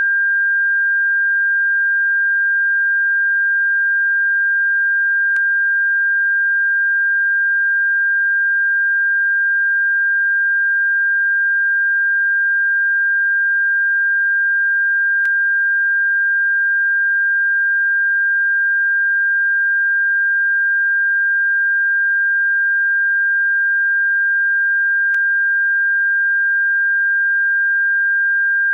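Continuous electronic pure tone, high-pitched and perfectly steady, played as a bird-repellent sound. A faint click comes about every ten seconds.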